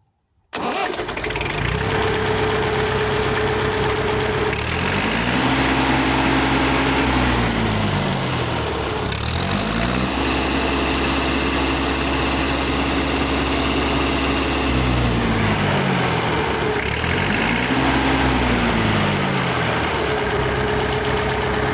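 Zanello tractor engine running, cutting in suddenly about half a second in, then revved up and let back down to idle three times, the middle rev held longest.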